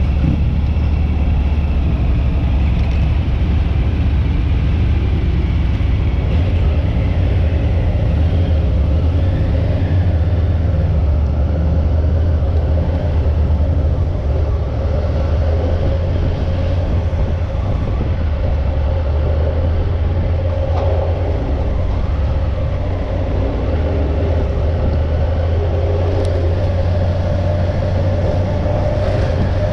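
Motorcycle running steadily at cruising speed: a constant low engine drone with road and wind noise, holding level throughout.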